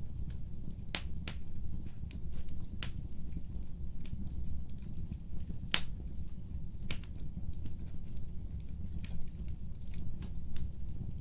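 Fire crackling: sharp, irregular pops, the strongest about a second in, near three seconds and near six seconds, over a steady low rumble of the flames.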